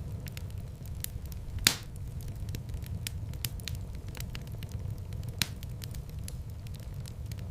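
Wood fire crackling in a fireplace: a steady low rumble of flames under many small sharp crackles, with a loud pop about a second and a half in and a smaller one about five seconds in.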